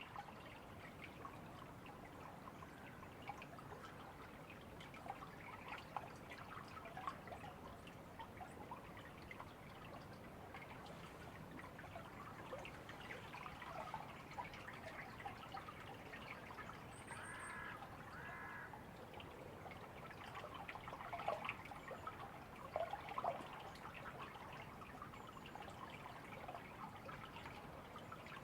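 A small stream trickling and burbling steadily. A bird gives two short calls about two-thirds of the way through.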